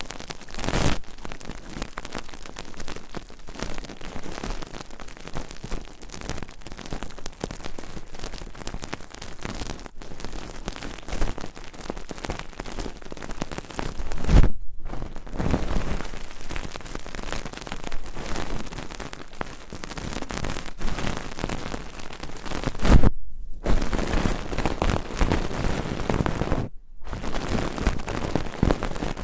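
ASMR trigger sounds worked close to a stereo microphone: a dense, continuous rain-like crackling rustle that cuts out briefly three times.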